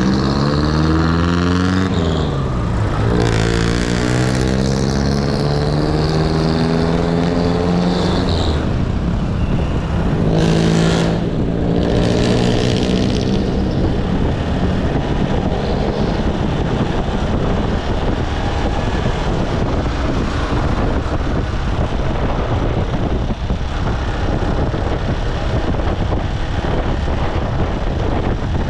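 Motorcycle engine accelerating: its pitch climbs, drops back, and climbs again twice over the first half. It then gives way to steady wind and road noise while riding.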